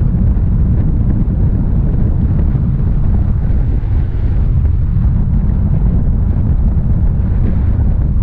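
Airflow in flight buffeting the microphone: a steady, loud, low wind rumble.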